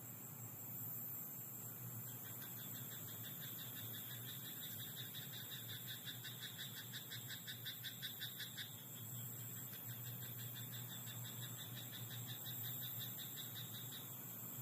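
Frogs calling in a rice paddy: rapid, repeated pulsed croaks that start about two seconds in and run in overlapping trains, densest around the middle, then thin out near the end.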